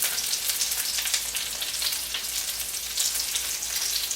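Breaded chicken cutlets shallow-frying in hot olive oil in a skillet, a steady dense sizzle full of fine crackles.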